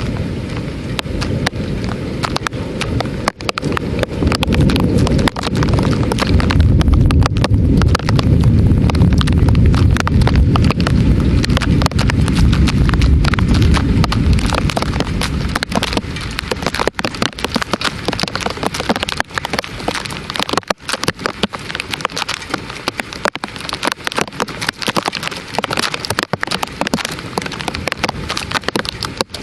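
Heavy thunderstorm rain, a dense noise full of drop impacts. A long low rumble swells over the first half and dies away about halfway through.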